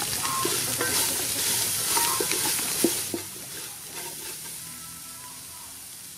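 Sliced onion and long beans sizzling in hot oil in a metal pot, stirred with a wooden spoon that scrapes and knocks against the pot. About halfway through the stirring stops and a quieter frying sizzle carries on.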